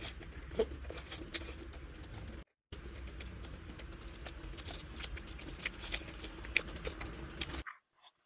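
Close-miked chewing of soft rice cakes in sauce: many small wet mouth clicks and squishes over a steady low hum. The sound drops out briefly about two and a half seconds in and cuts to silence near the end.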